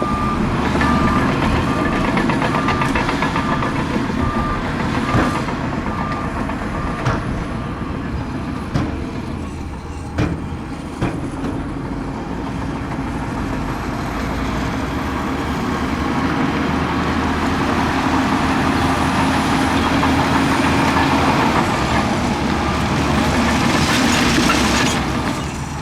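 Heavy diesel earthmoving machinery running, with a reversing alarm beeping in the first few seconds. A few sharp metal clanks come near the middle, and the engine grows louder toward the end.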